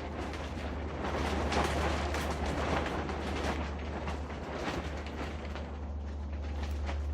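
Roots and matted soil of a spruce root ball being scraped and torn apart: a continuous crackling, rasping scratching, busiest in the first few seconds, over a steady low hum.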